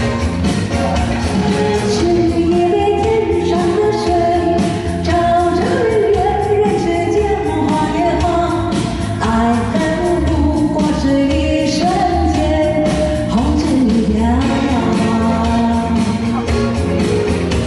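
Rock song performance: a sung vocal melody over a band with drums and guitar.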